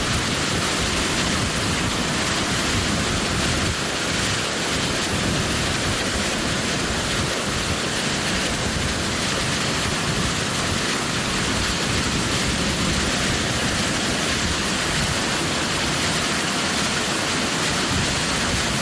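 Heavy summer rainstorm with strong wind, a loud, steady, even roar.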